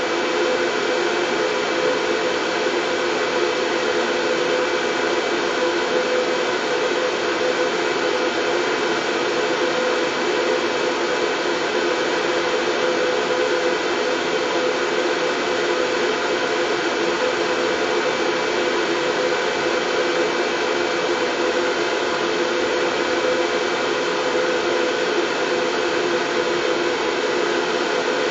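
Steady white noise for lulling a colicky baby to sleep: an even, unchanging hiss, with a few faint steady hum tones running through it like a fan or hair-dryer motor.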